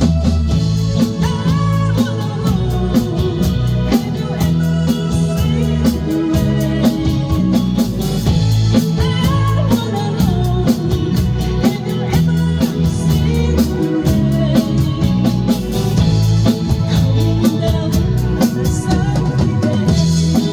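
Live rock band playing at full volume: steady drum-kit beat, bass, electric guitar and organ.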